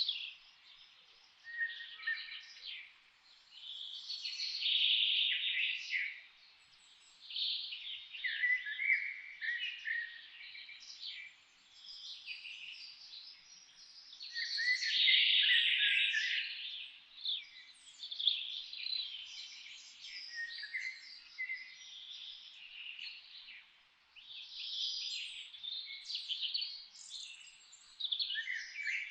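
Songbirds singing and chirping, several high phrases of a second or two each, one after another with short pauses between.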